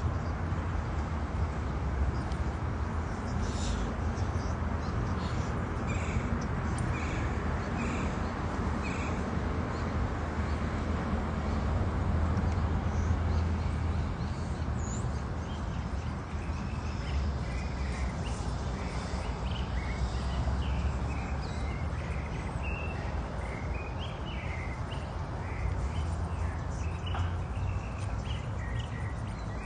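Birds calling outdoors: four short chirps about a second apart a fifth of the way in, then a busier run of chirps through the second half, over a steady low rumble.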